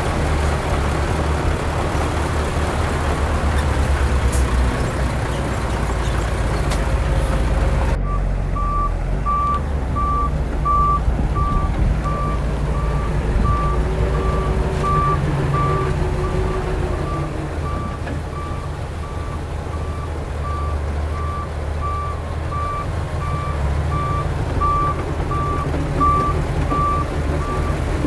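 Heavy construction machine's diesel engine running with a low, steady rumble. About eight seconds in, a reversing alarm starts beeping at an even pace over the engine and keeps going, the sign that the machine is backing up.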